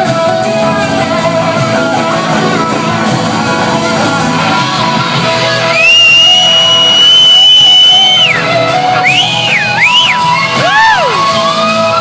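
Live band playing under an electric slide guitar solo: about halfway through a long high note is held steady, then the slide swoops up and down in quick glides.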